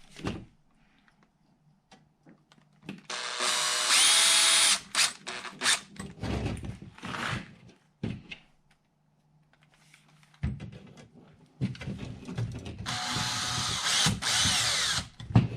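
Power drill driving screws in to fasten a battery tray, in two longer runs about nine seconds apart with short bursts between, until the screws are snug.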